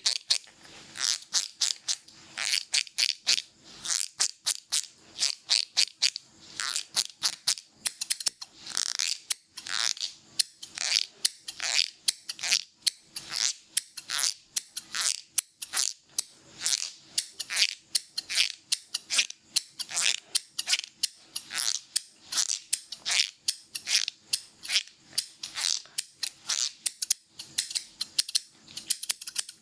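Hairdressing scissors snipping rapidly and steadily, several snips a second, in a fast haircut.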